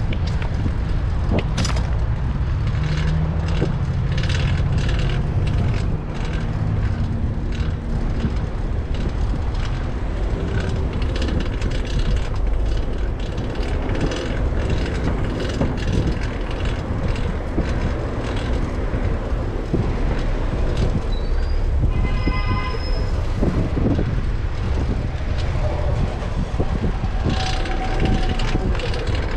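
Wind buffeting the microphone and road noise on a fixed-gear bicycle ride in traffic, with a steady low rumble and frequent clicks from a loud drivetrain that the rider puts down to a new cog. About 22 seconds in, a brief horn-like pitched tone sounds.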